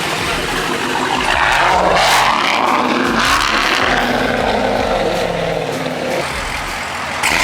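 A car's engine and exhaust running loud as it revs and pulls away, swelling in a rush about two seconds in.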